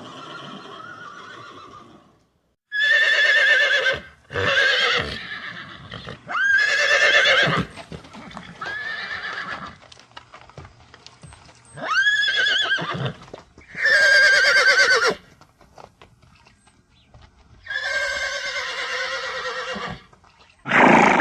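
Horse whinnying, about eight separate calls in succession, each lasting a second or two with a quavering pitch, several starting high and sliding down.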